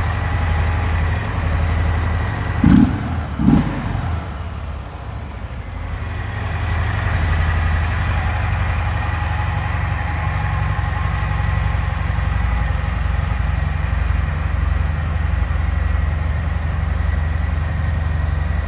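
Harley-Davidson Softail Sport Glide's Milwaukee-Eight V-twin idling steadily, with two quick throttle blips a little under a second apart about three seconds in.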